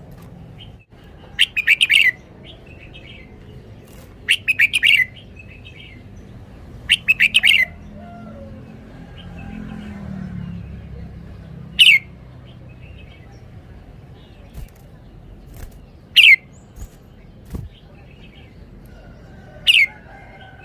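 Red-whiskered bulbul singing: three short bursts of rapid warbled notes in the first eight seconds, then single sharp downward-sweeping calls about every four seconds.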